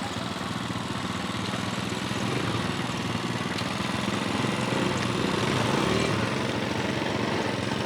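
A large vehicle's engine running close by, getting gradually louder as it approaches.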